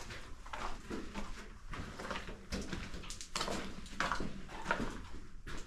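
Boots stepping slowly through mud and water, an irregular run of splashing, squelching steps about one a second.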